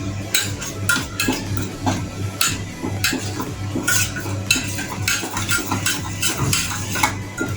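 A metal spoon stirring a wet spice paste in a bowl, clinking and scraping against the bowl about twice a second, over a steady low hum.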